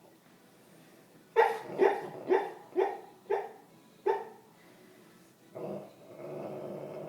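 A dog barking in its sleep while dreaming: six short barks in quick succession, then a longer growl near the end.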